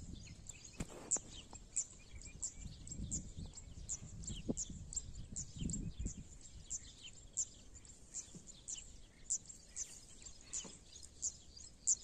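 A small bird chirping over and over, short high chirps falling in pitch, about two or three a second. There are a couple of low rumbles about three and six seconds in.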